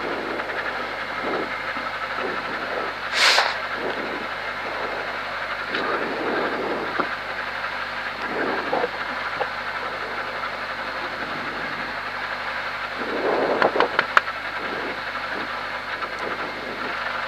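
Rally car's engine idling steadily in neutral, heard from inside the stripped, caged cabin. There is a short hiss about three seconds in, and a few clicks and rattles near the end.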